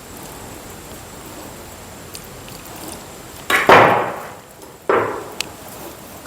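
Hands kneading maida dough in a bowl: quiet working of the dough, then two loud slaps of the dough, about three and a half and five seconds in, each fading away over about half a second.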